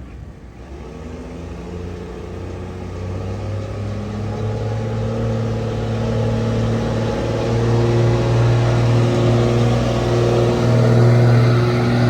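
Old Dodge pickup's engine running hard under load as it pulls a sled, a steady note that grows steadily louder; the commentator takes it for an early six-cylinder Cummins diesel.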